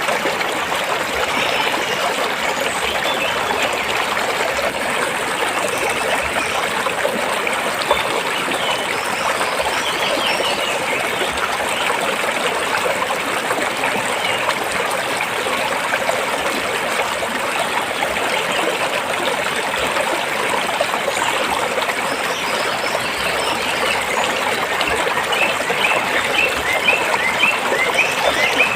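Stream water flowing and splashing between rocks, a steady, even rush.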